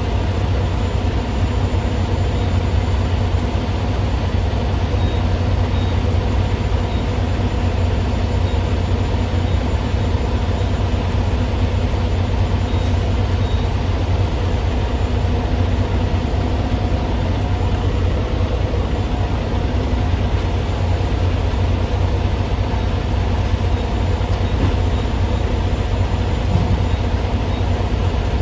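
Semi truck running: a constant low engine drone with steady hum, unchanging throughout.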